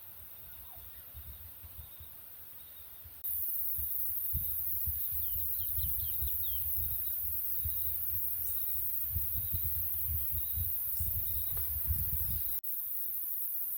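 Steady, very high-pitched insect chorus of a tropical forest, louder from about three seconds in, with a short run of quick bird chirps near the middle. Low rumbling on the microphone runs underneath until a sudden break near the end.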